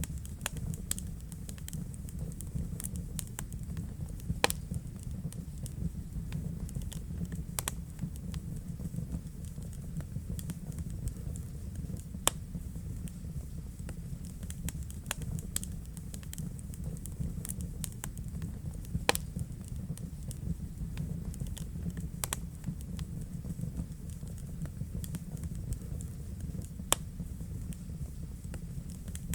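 Wood fire burning in a fireplace: a steady low rumble of the flames with continual light crackling and a few sharper pops.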